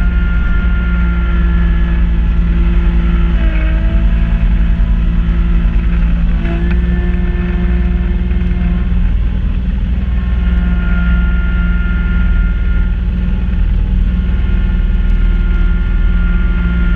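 Kubota B2650 compact tractor's diesel engine running steadily while driving a front-mounted B2782 snow blower. It is a constant drone with a higher whine that dips briefly in pitch twice in the first half, as the load shifts.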